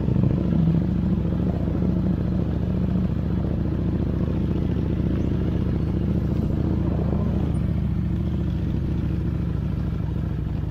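Motorcycle engine running steadily under way, its low note holding nearly constant.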